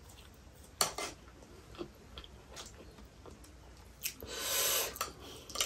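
Chewing a soft fried potato strip: scattered wet mouth clicks and smacks, the loudest pair about a second in, and a breath about four seconds in.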